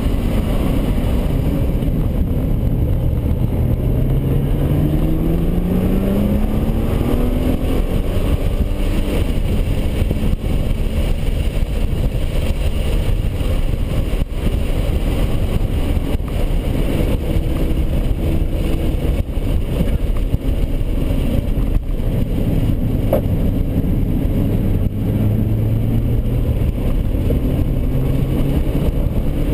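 Cabin sound of a 2010 Nissan GT-R's twin-turbo V6 running hard on track, over a heavy steady rumble of road and tyre noise. The engine note rises as the car accelerates a few seconds in and again near the end.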